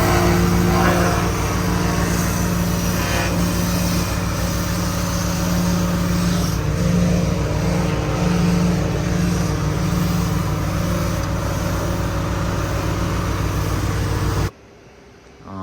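An engine running steadily at a constant speed, with a hiss of noise over it, cutting off suddenly near the end.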